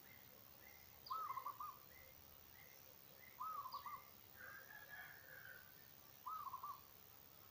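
Faint birdsong. One bird gives a short call of three or four quick arched notes three times, a few seconds apart, while other birds chirp softly and steadily with occasional thin falling whistles.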